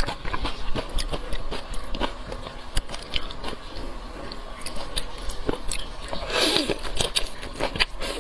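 Close-up eating sounds of a person chewing and biting seafood: many quick wet clicks and crunches, with one louder burst of noise about six and a half seconds in.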